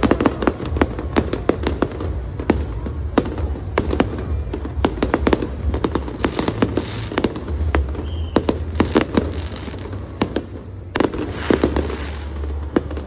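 Aerial fireworks going off in quick succession: many sharp bangs and crackles, several a second, over a low rumble. The bangs thin out a little about ten seconds in, then pick up again.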